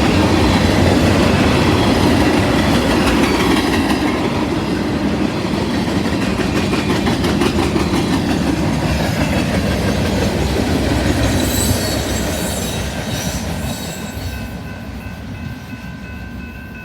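Freight train cars rolling past with a steady rumble and wheel clatter on the rails, fading away over the last few seconds. A few faint, steady high tones come in near the end.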